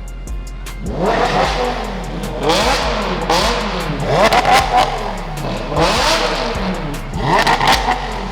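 Sports car engines revving hard as the cars pull away. The pitch climbs steeply and drops back several times, with the loudest revs about four to five seconds in.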